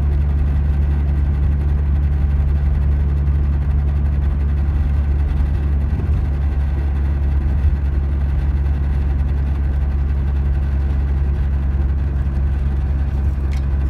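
The Toyota MR2 AW11's 4A-GE four-cylinder engine running, heard from inside the car as a steady low drone, with faint thin steady tones above it.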